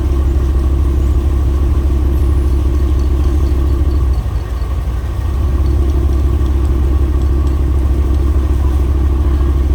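Boat engine running steadily with a deep, even rumble that eases briefly about four seconds in.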